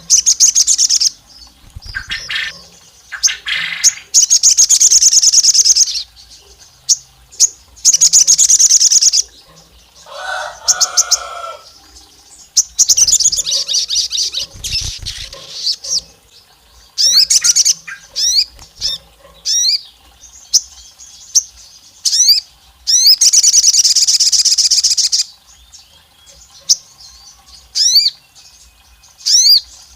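Crimson sunbird (sogon) singing in loud bursts of rapid, very high-pitched trills, mixed with short quick rising sweeping notes in the second half. About ten seconds in there is a lower, buzzier chattering.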